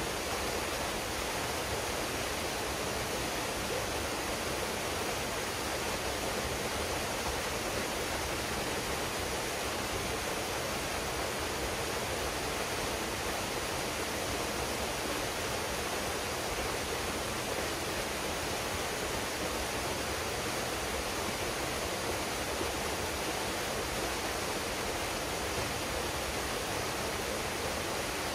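A waterfall pouring steadily into a pool, a constant even rush of falling water.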